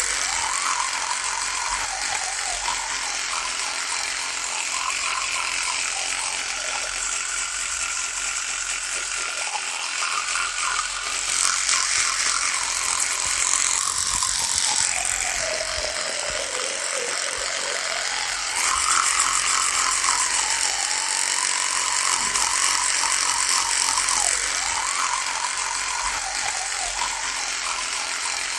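Electric toothbrush buzzing steadily, its pitch wavering throughout, sagging lower for a few seconds around the middle and then jumping back up.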